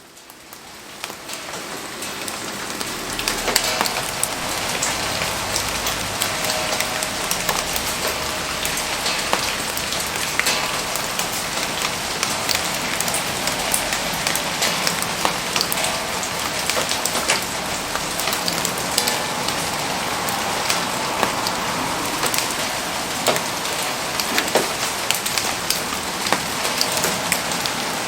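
Steady rain falling, with many sharp ticks and pops scattered through it; it fades in over the first few seconds and then holds steady.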